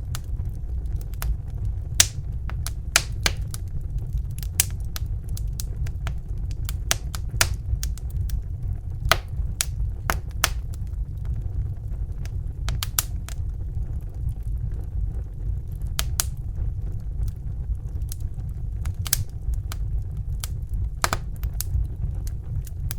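Fire crackling: irregular sharp pops and snaps, about one or two a second, over a steady low rumble.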